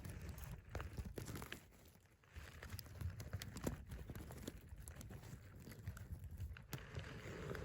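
Phone handling noise as the phone is pushed into a rock cavity: faint, irregular clicks, scrapes and rustles of the casing rubbing against stone and vegetation, with low rumbling from the handling.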